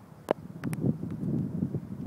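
Wind buffeting the microphone in uneven gusts. A sharp click comes about a third of a second in and two more follow close together shortly after.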